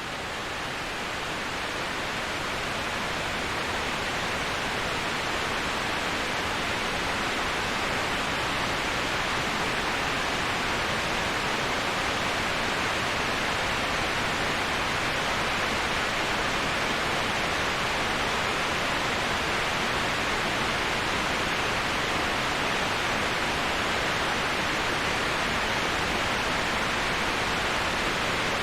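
Steady rushing waterfall white noise: an even, unbroken hiss with most of its energy in the upper middle range. It swells slightly in level over the first few seconds, then holds steady.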